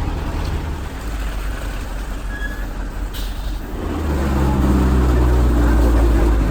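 Heavy vehicle's engine running with a low rumble, a short air-brake hiss about three seconds in, then the engine growing louder and holding a steady drone from about four seconds.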